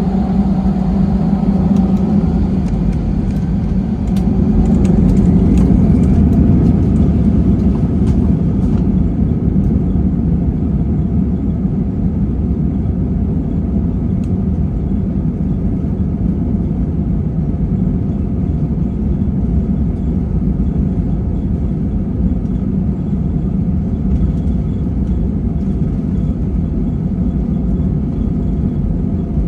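Airliner engines and airflow heard from inside the passenger cabin: a loud, steady rumble with a low droning hum, a little louder in the first nine seconds, with a few faint clicks.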